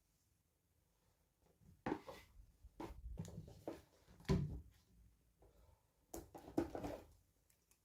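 Small plastic toy packaging being handled and opened: three short spells of rustling and clicks, the first about two seconds in, the last ending about seven seconds in.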